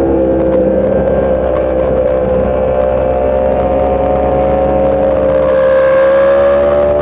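Sport motorcycle engine running at steady high revs under way, its pitch holding nearly constant and creeping up slightly near the end.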